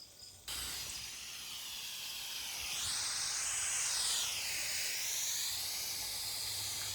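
Water hose nozzle on a light mist setting, spraying with a steady hiss that starts suddenly about half a second in and shifts in tone around the middle.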